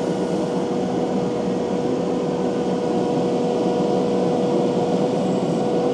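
Takeuchi TL12V2 compact track loader's diesel engine and high-flow hydraulics running under load, driving a Conatex rotary soil-grinding attachment through wet clay, with a steady whine over the engine.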